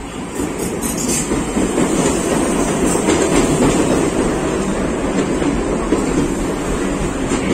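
A SuperVia CNR 3000-series electric multiple unit runs in alongside the platform, close by: a steady rumble of steel wheels on rail that swells over the first two seconds and then holds. A few sharp clacks come in the first second.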